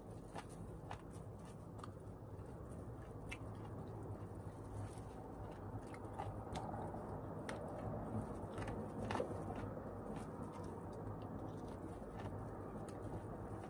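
Close-up biting and chewing on adobo-braised chicken feet, with many small sharp clicks and cracks scattered throughout, over a low steady hum.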